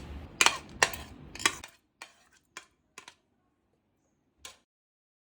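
Eggs being beaten in a bowl with a utensil, the utensil clicking against the bowl about two to three times a second. The beating stops about one and a half seconds in, leaving a few fainter taps.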